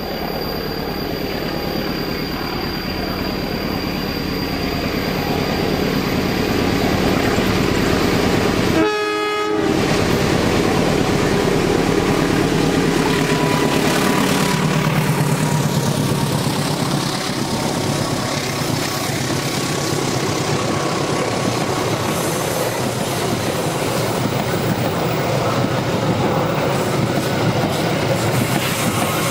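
Diesel-electric passenger locomotive approaching and passing close with its train, the engine running and growing louder over the first seconds, then the coaches' wheels clattering on the rails as they roll by. A short horn note sounds about nine seconds in.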